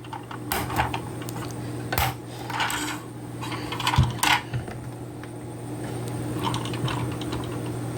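Plastic parts of a Schleich toy tractor being handled and snapped open and shut: a handful of sharp clicks and clatters, mostly in the first half, fewer later.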